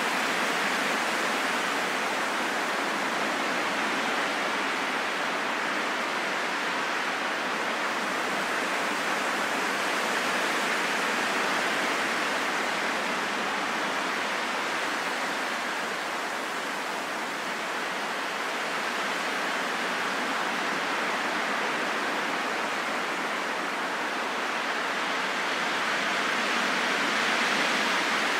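Steady rushing wind, an even hiss that slowly swells and eases, dipping about two-thirds of the way through and rising again near the end.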